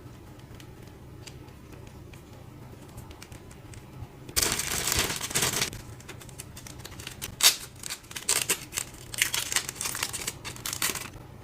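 Figure packaging being unwrapped: a long tearing rip about four seconds in, then a run of crinkles, rustles and sharp clicks.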